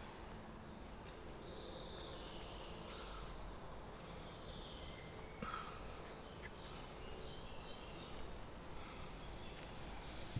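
Faint birdsong in a quiet forest, short chirps scattered throughout, with one brief soft knock about five and a half seconds in.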